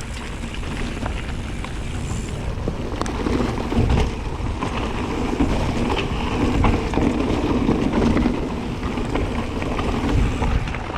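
2019 Rocky Mountain Instinct Powerplay e-mountain bike with a Dyname motor coasting downhill: tyres rolling over the trail surface and wind on the microphone, with only a few light clicks and knocks from the bike. It is a really quiet ride, with little rattle.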